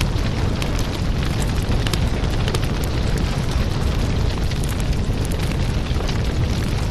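Firewood burning in an open fire: a steady low rumble with frequent, irregular sharp crackles and pops from the burning wood.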